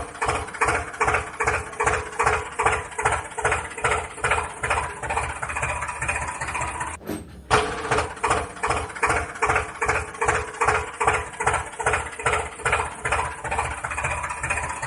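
Tractor engine idling with a steady chugging, about three beats a second, briefly cut off about seven seconds in.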